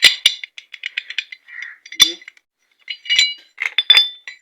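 Metal engine parts clinking and rattling as they are handled, a string of short ringing clinks with one sharper knock about two seconds in.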